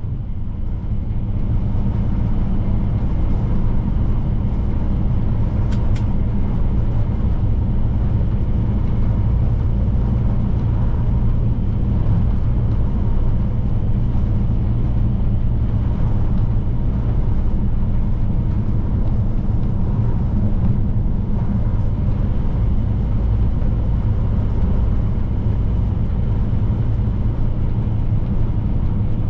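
Scania P310 truck's diesel engine running steadily at highway cruise, with tyre and road noise and a single short click about six seconds in.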